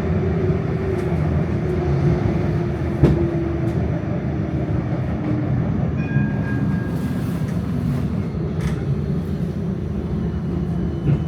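Melbourne tram running on its rails, heard from inside: a steady rumble of wheels and running gear, with a sharp knock about three seconds in and a faint brief high squeal around the middle.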